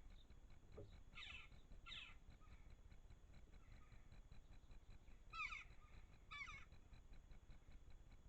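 A bird calling faintly four times, in two pairs of short calls that fall in pitch, the second pair louder, over a low background hum.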